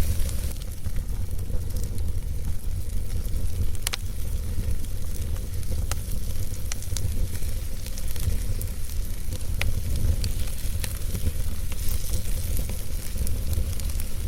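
Wood fire burning in a fireplace: a steady low rumble and hiss of the flames with scattered sharp crackles and pops from the burning logs, the loudest pop about four seconds in.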